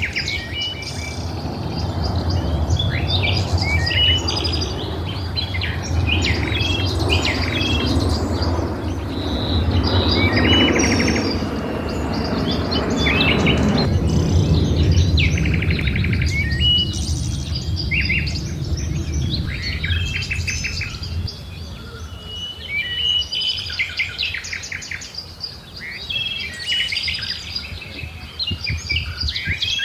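Many birds chirping and singing together, with short repeated calls and trills overlapping throughout. Under them is a low rumbling background noise that eases off about two-thirds of the way through.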